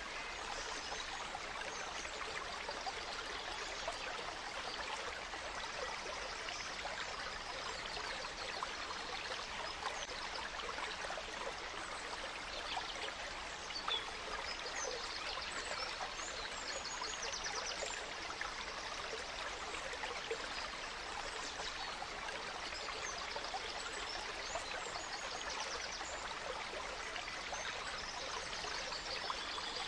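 A gentle stream trickling and running over stones, steady throughout, with small birds chirping now and then above it.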